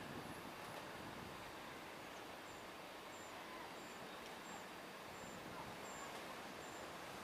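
Faint outdoor background noise with a small bird's high chirp repeating about twice a second from a couple of seconds in.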